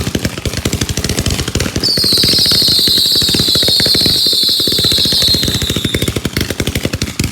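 Fireworks going off: a rapid, continuous run of crackling bangs, many per second. About two seconds in, a high whistle starts and slowly falls in pitch for about four seconds over the bangs.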